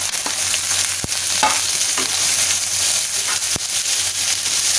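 Bitter gourd strips sizzling in hot oil in a wok as they are stir-fried with a wooden spatula: a steady, loud hiss, with two sharp knocks against the wok, about a second in and again past three seconds.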